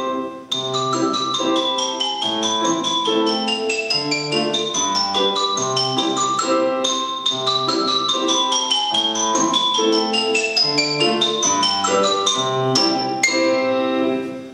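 Solo instrumental music of fast runs and arpeggios on a struck, ringing instrument, piano or mallet percussion such as marimba or vibraphone, ending on a final chord that dies away near the end.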